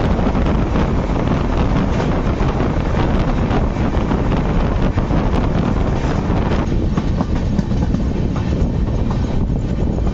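Indian Railways sleeper coach running at speed: a steady rumble and rattle of wheels on rail with quick clicks, and wind buffeting the microphone held out of the coach window.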